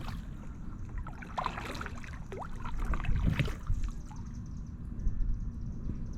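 Kayak paddle dipping and pulling through calm water, with drips and small splashes off the blade a few times. Under it is a steady low rumble of breeze on the microphone.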